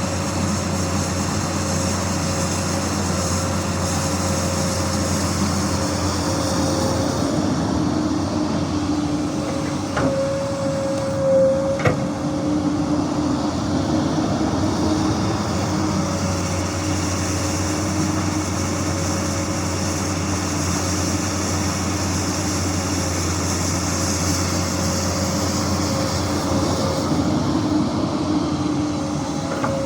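Komatsu PC200 hydraulic excavator working, its diesel engine and hydraulics running steadily with a constant whine over the engine drone. A couple of faint knocks come about a third of the way in.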